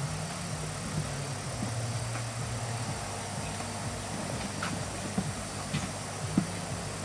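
A motor running steadily with a low drone whose pitch shifts slightly a couple of times, with scattered faint clicks and knocks.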